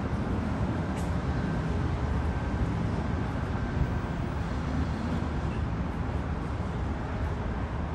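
A passenger train pulling away from the station, a steady low rumble that does not change much as the train recedes.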